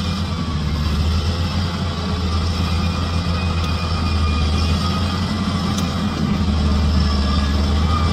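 Bulldozer's diesel engine running steadily with a deep drone, growing slightly louder in the last couple of seconds.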